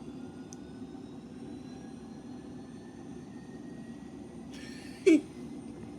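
Distant aircraft engine running steadily, with a faint whine that slowly rises in pitch. About five seconds in, a short, loud yelp from a voice, falling in pitch.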